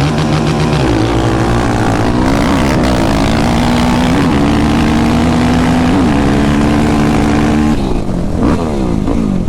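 An ATV engine revving hard and held at high revs, with a few brief dips in pitch, then easing off and wavering near the end, as in a practice launch.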